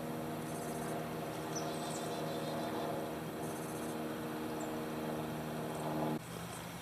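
An engine idling with a steady hum that stops abruptly about six seconds in. High, pulsing insect chirps sound twice over it.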